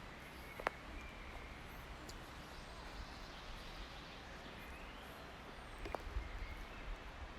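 Forest ambience on a walk: faint, short bird chirps over a steady hiss and a low rumble. Two sharp clicks stand out, one just under a second in and one about six seconds in.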